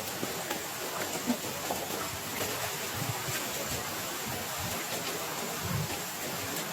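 Heavy rain falling steadily, with scattered drop taps and one sharper tap about a second in.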